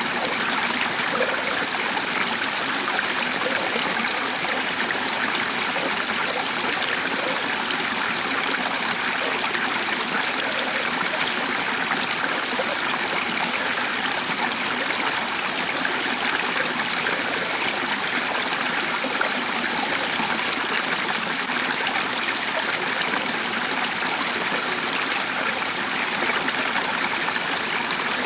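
Stream flowing steadily, water running and trickling with an even rush.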